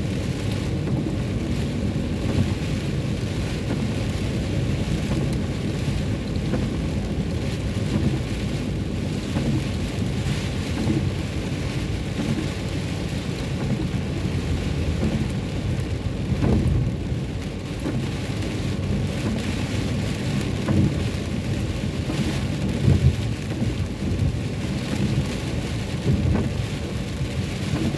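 Steady rain on a moving car, heard from inside the cabin, over the low rumble of the car driving on a wet road.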